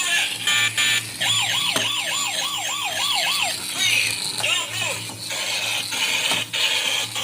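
Electronic siren warbling up and down about twice a second for a couple of seconds, with a shorter wail a little later, over background music.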